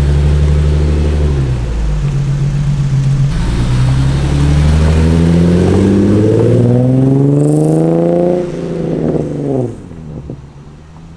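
Nissan 240SX engine pulling under throttle: it holds a steady note, dips briefly, then climbs steadily in pitch for several seconds before the throttle is lifted and the note falls away and goes quiet.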